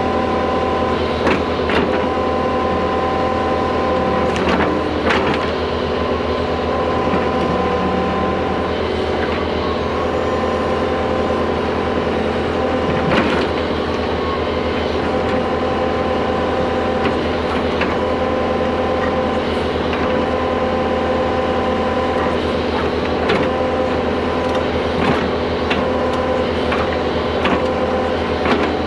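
Excavator's diesel engine running steadily under load as it pulls a water line plow through the ground, with scattered sharp knocks and clanks from the machine and plow.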